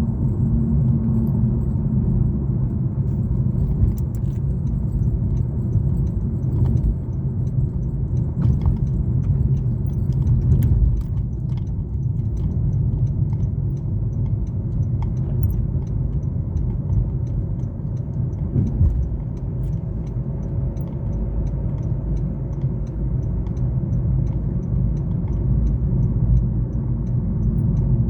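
A car driving along a highway: steady low engine and road rumble, with small light clicks and rattles.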